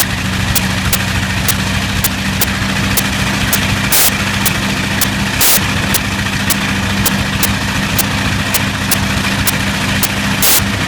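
Bristol Hercules fourteen-cylinder sleeve-valve radial aero engine running steadily at low speed, with a rhythmic string of sharp pops and a few louder bursts about four and five seconds in and near the end: a slight misfire.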